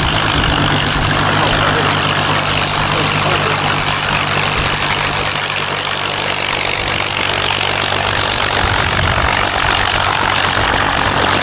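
Propeller aircraft's piston engines idling: a steady low drone with a broad rushing noise over it. The low engine tone weakens about two-thirds of the way through.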